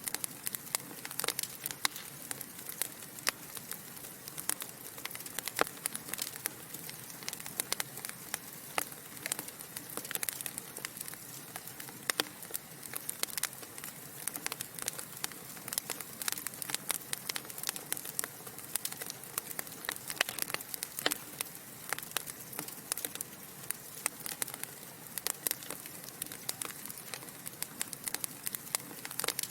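Wood fire burning in a fireplace: a steady soft hiss with many sharp, irregular crackles and pops from the burning logs.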